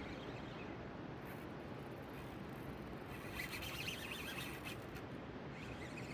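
Steady hiss of rain, with a short patch of sharper crackle about three and a half seconds in.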